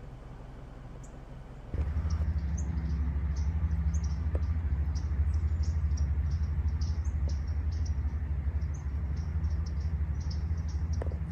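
Small birds calling with many short, high-pitched chips, several a second. About two seconds in a loud, steady low rumble starts and continues under them.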